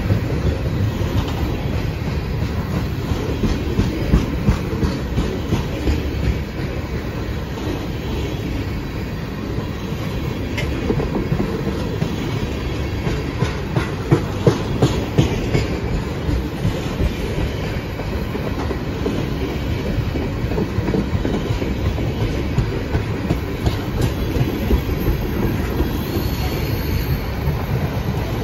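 Freight train tank cars rolling past at close range: a steady rumble of steel wheels on rail, with clickety-clack as the wheel sets cross rail joints in repeated groups of clicks. A brief faint wheel squeal comes near the end.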